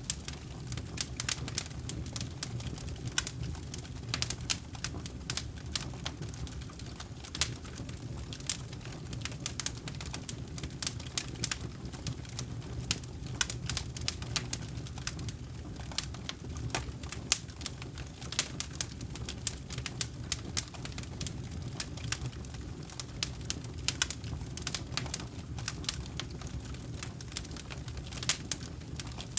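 Campfire of burning wood crackling, with frequent irregular sharp pops and snaps over a steady low rumble.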